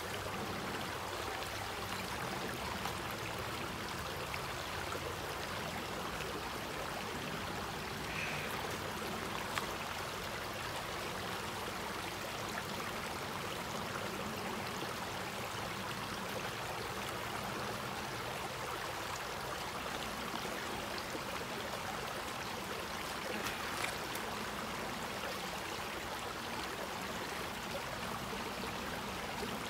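Stream water running over rocks: a steady, even rush with no change in level.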